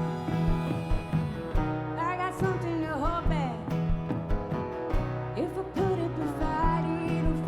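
Live country-rock band playing in concert: a steady drum beat under guitars and bass, with a high melody line that slides between notes.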